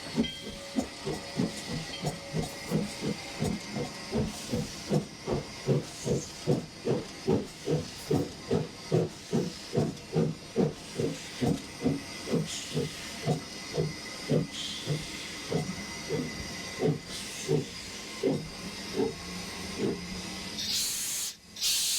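Steam locomotive's exhaust chuffing over a steady hiss of steam, the beats slowing and fading until they stop. A loud burst of steam hiss comes near the end.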